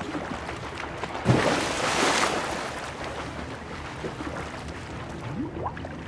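A sudden splash in water about a second in, trailing off over about a second into steady lapping water.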